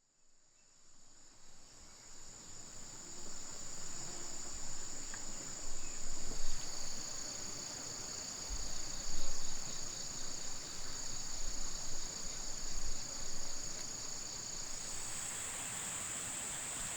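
Steady, high-pitched insect chorus, fading in over the first few seconds; near the end the lower part of the calling drops out and the pitch moves slightly higher. Irregular low rumbles come through in the middle.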